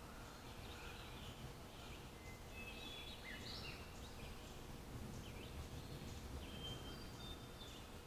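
Several small birds chirping and whistling: short notes and brief rising and falling phrases, over a faint steady low rumble of outdoor background noise.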